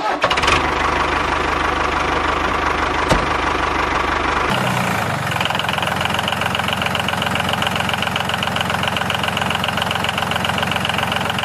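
The motor of a DIY mini tractor running steadily with a fast rattle. About four and a half seconds in, the sound changes abruptly to a higher, buzzier note.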